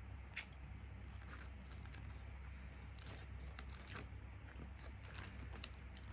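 Eating crispy Japanese fried chicken (karaage): scattered crunches and small clicks of biting and chewing, over a steady low hum.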